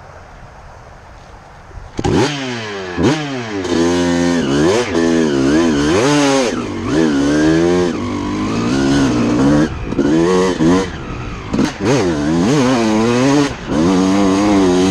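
2006 Suzuki RM250's single-cylinder two-stroke engine, ridden hard. Its pitch climbs and drops again and again, with sudden falls between pulls. It comes in loudly about two seconds in, after a faint windy hiss.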